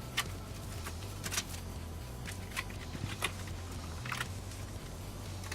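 Scattered small clicks and taps of computer cables and plastic and metal parts being handled and fitted, about five in all, over a steady low hum.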